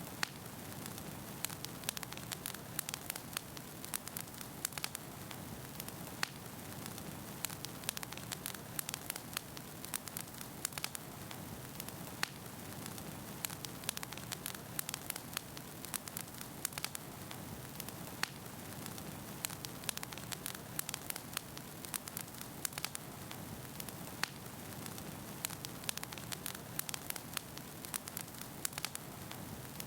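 Wood fire burning in a fireplace: a steady low hiss of flame with frequent irregular sharp crackles and pops from the burning logs.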